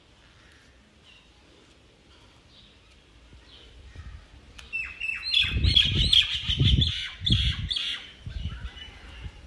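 Small birds chirping, faint at first, then a loud burst of rapid, overlapping chirps from about five seconds in. Low rumbling thumps sound underneath the chirps.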